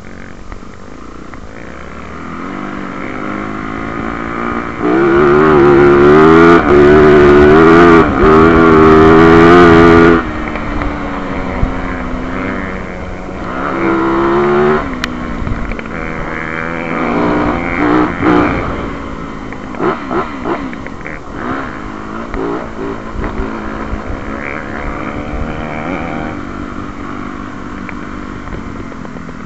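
Dirt bike engine heard from the bike's own handlebars, accelerating hard and shifting up through the gears, loudest about a sixth to a third of the way in. It then eases off into shorter throttle surges and blips before settling to lower, steadier running.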